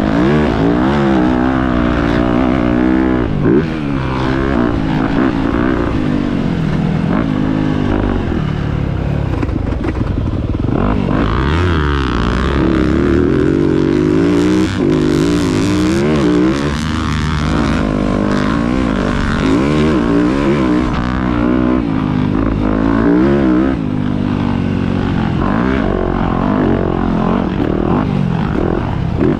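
A motocross dirt bike engine running loud under hard riding, its pitch climbing and dropping again and again as the throttle opens and closes and the gears change.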